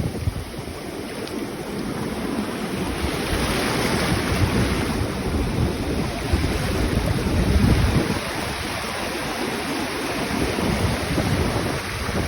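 Sea waves washing and breaking, a steady rush of surf that swells loudest about three-quarters of the way through, with wind buffeting the microphone.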